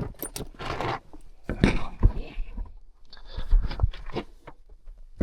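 Scraping and crunching of a person crawling and shuffling across an attic, with a few dull thumps of knees or hands landing.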